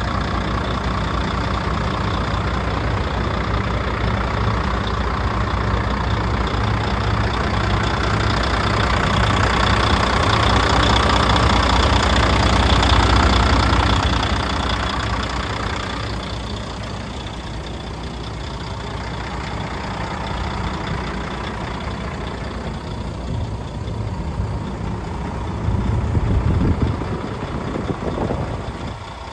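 Volvo truck diesel engine running at idle, a steady low rumble that grows louder toward the middle and then eases back.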